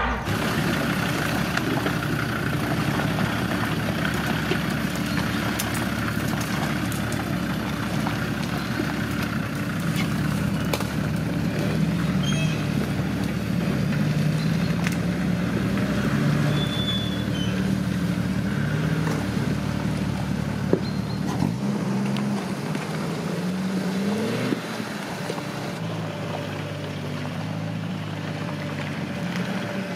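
Off-road 4x4's engine running and revving, its pitch wandering up and down under load. About 24 seconds in it rises in one quick rev and then drops back to a lower, quieter run, with a single sharp knock a few seconds before.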